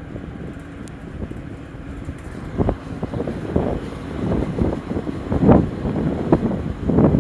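Wind buffeting the microphone in irregular gusts, a low rumble that grows stronger in the second half.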